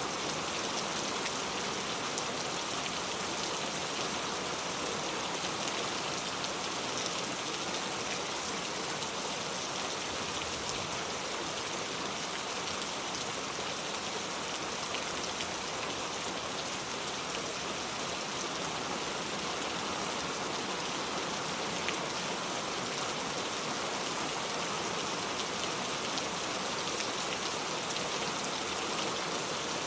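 Steady rain falling, an even hiss of many drops with faint scattered ticks of individual drops hitting surfaces.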